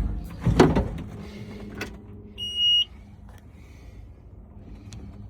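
A few clunks, then a single electronic beep lasting about half a second, typical of a Takeuchi TL10 skid steer's instrument panel warning buzzer when the key is switched on, over a low steady hum.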